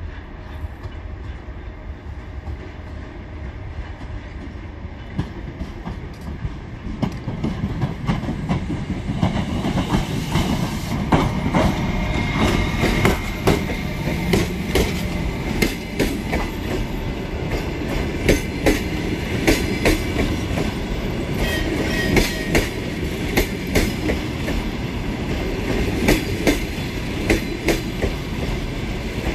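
Passenger train rolling through the station: a low rumble builds over the first several seconds, then the wheels click over rail joints and points again and again for the rest of the time.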